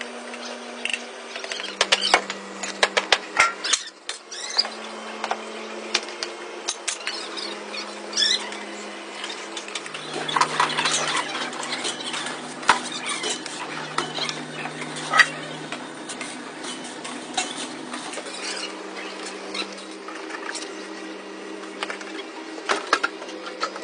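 Repeated metal clinks and knocks at irregular intervals, over a steady low machine hum whose pitch steps up and down every few seconds.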